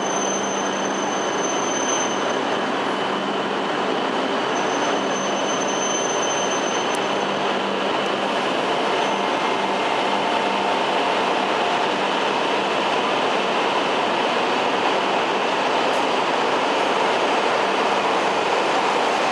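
Coupled E5 and E6 series Shinkansen train sets moving at the station platform: a steady rail noise of wheels and running gear with faint high whines, growing slightly louder toward the end.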